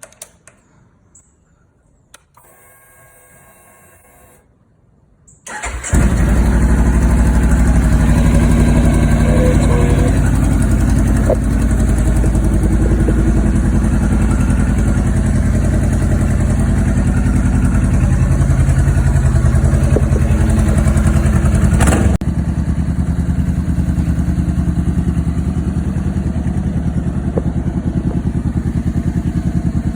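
A 2017 Honda CBR500's 471 cc parallel-twin engine, breathing through an aftermarket exhaust, is cranked and catches about six seconds in after a faint whir. It then idles loudly and steadily, easing slightly in level about two-thirds of the way through.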